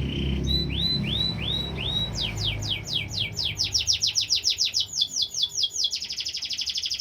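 Canary singing in a chain of tours: a few slurred hooked notes about half a second apart, then a run of quick downward-sweeping notes that speed up, and from about six seconds in a rapid, even trill. A low rumble sits under the first few seconds.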